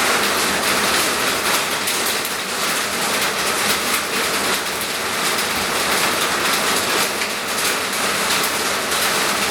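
Steady heavy rain falling, an even hiss with faint patter.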